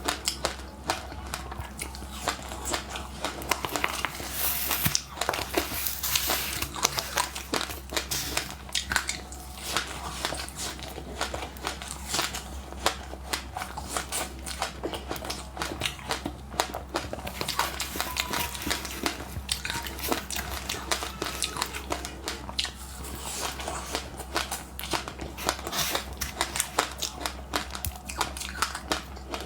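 Close-miked chewing of crunchy passionfruit seeds with sesame seeds: a dense, irregular run of small crackling crunches that goes on without pause.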